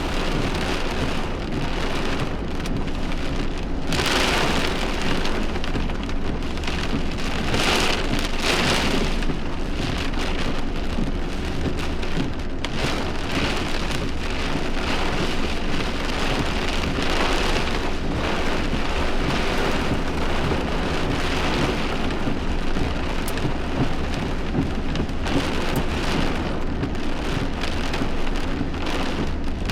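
Heavy thunderstorm rain pouring down, a dense steady rush that swells louder about 4 and 8 seconds in.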